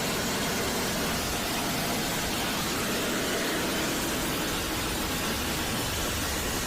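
Steady, loud rushing roar with no pitch to it, cutting in and out abruptly.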